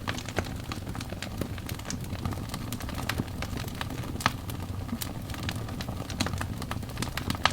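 Wood fire burning, logs crackling with frequent irregular pops and snaps over a low steady rumble of flame, a few louder pops standing out.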